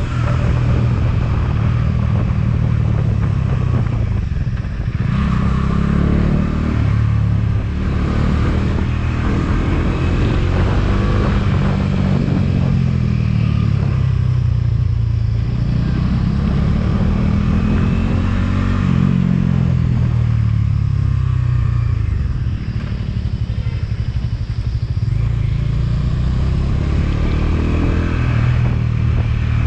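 Motorcycle engine running under way, its revs rising and falling several times as the rider opens and closes the throttle.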